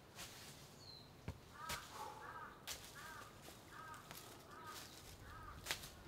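A bird calling over and over, one short call about every 0.7 seconds in a run of six or so from about two seconds in. A few sharp clicks fall in between.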